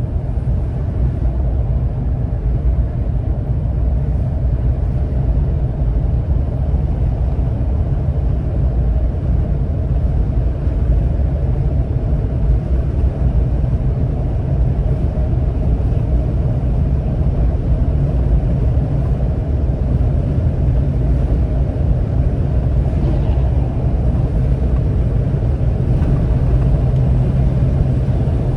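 Car driving in slow, crawling traffic: a steady low rumble of engine and road noise.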